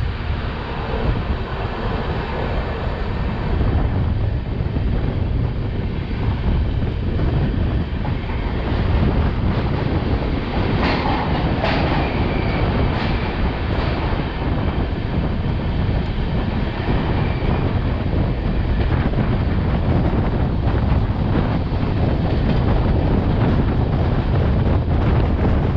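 Express passenger train running at speed, its wheels rumbling and clattering over the rails, with wind buffeting the microphone held outside the coach. A brief louder rush comes about eleven seconds in.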